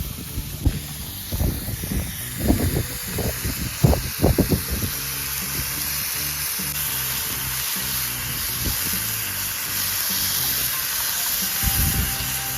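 Background music over food sizzling on a campfire grill, with a run of sharp knocks and clatters in the first few seconds.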